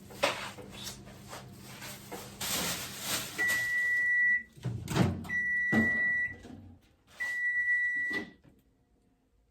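Microwave oven beeping three times, each beep a steady tone held for about a second. Knocks and thumps of the door and handling come at the start and between the first two beeps.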